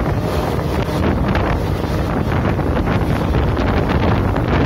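Wind rushing hard across the microphone held out of a moving passenger train, over the steady running noise of the coach on the rails.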